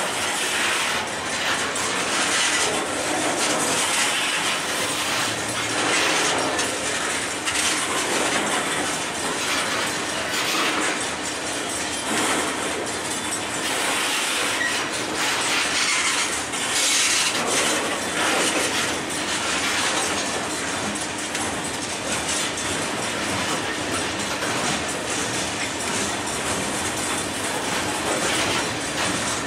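Freight train of covered hopper and tank cars rolling steadily past at close range: a continuous rumble and hiss of steel wheels on rail, with a clatter that swells every second or two as each car's wheelsets pass.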